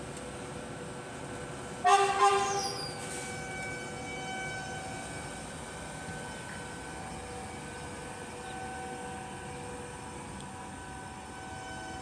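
Train horn sounding one short, loud blast about two seconds in, over the steady running hum of the train.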